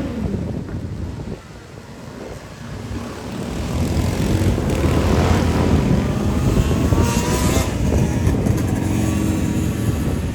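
A pack of motorcycles riding past, their engines running in a continuous drone that dips briefly about a second and a half in, then builds again as more bikes come through, with one engine revving up in pitch near the end.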